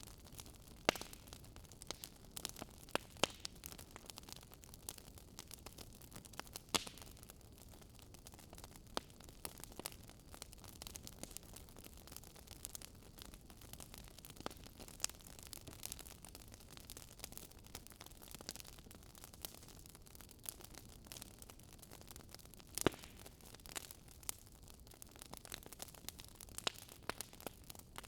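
Wood fire crackling in a fireplace: a soft steady hiss of flames with irregular sharp pops and snaps, the loudest about a second, three seconds, seven seconds and twenty-three seconds in.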